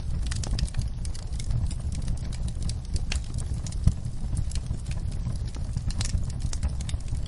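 Campfire crackling: irregular sharp pops and snaps of burning wood over a steady low rumble, with one louder pop about four seconds in.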